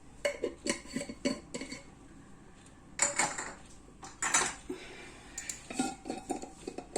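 A spoon clinking and scraping against dishes in short clusters of knocks while ground spices are measured out by the spoonful.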